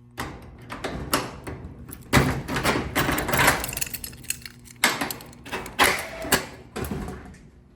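Irregular knocks and clatters of things being handled, with sharper bangs about two seconds in and again around five and six seconds in.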